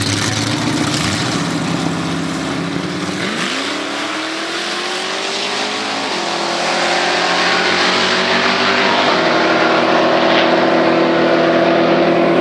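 A Pontiac Trans Am and a Chevrolet Nova launching in a drag race. After a few seconds of steady engine running at the line, the engines rev up through the gears, the pitch rising and dropping at each shift about six and nine seconds in.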